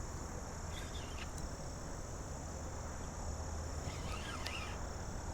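Steady high-pitched trill of crickets or similar insects over a low, even rumble, with two short chirps: one about a second in and one around four seconds.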